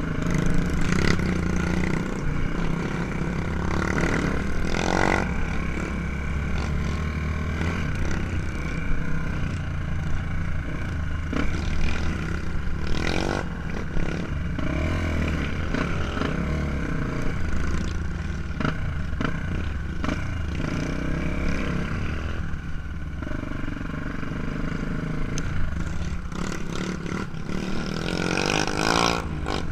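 Trail motorcycle engine running, its level rising and falling as it is ridden, with scattered knocks and rattles throughout.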